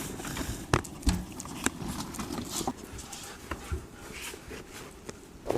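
A dog moving about, with irregular light clicks and taps.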